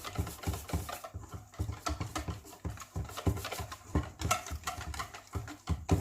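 Puto batter being stirred in a bowl to mix in pandan extract, the utensil knocking against the bowl in a quick, steady rhythm of about four strokes a second.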